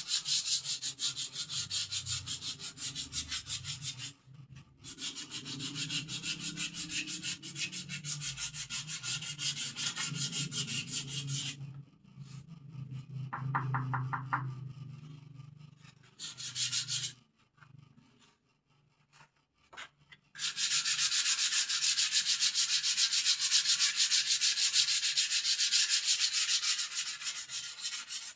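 Hand sanding of a wooden bird cage with sandpaper: rapid back-and-forth scraping strokes. The sanding stops briefly about four seconds in, dies away for several seconds midway, then comes back louder.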